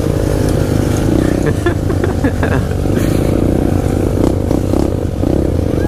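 SSR 125 pit bike's four-stroke single-cylinder engine running steadily, heard up close through a helmet-mounted mic.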